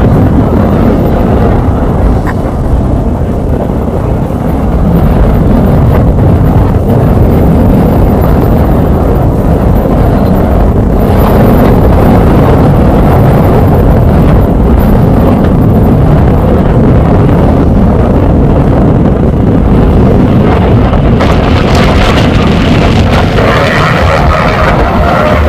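Steady loud rumble of a propeller airplane engine running, mixed with heavy wind buffeting the microphone.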